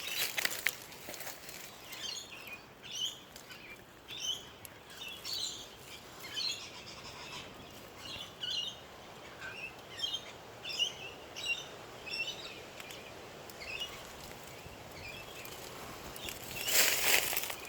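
A bird chirping over and over, short high chirps coming roughly once or twice a second. A brief rustling noise, the loudest sound, comes near the end.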